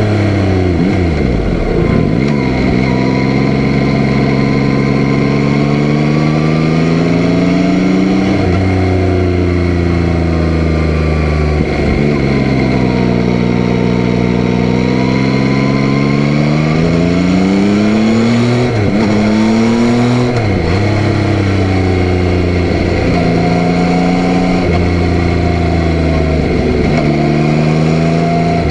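Yamaha Tracer 9's 890 cc inline-three engine under way, its note climbing with the revs, then dropping sharply and climbing again, about six times: the bike accelerating through the gears and rolling off the throttle.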